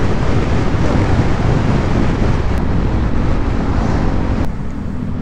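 Wind rushing over a motorcycle rider's microphone while riding, with the motorcycle's engine running underneath. About four and a half seconds in the wind hiss drops and the steady engine hum comes through more clearly.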